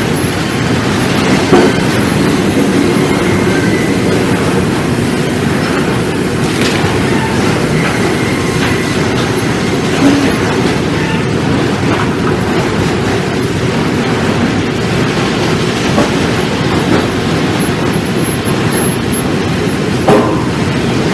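Sawmill machinery running steadily with a loud rumbling clatter, and a few sharp knocks scattered through it.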